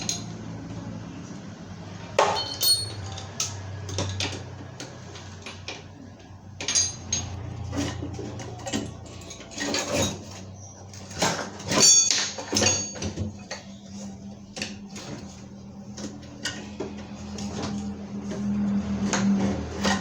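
Metal tools and engine parts clinking and knocking irregularly as a Vespa scooter engine is taken apart, with the loudest knocks about twelve seconds in. A low steady hum runs underneath.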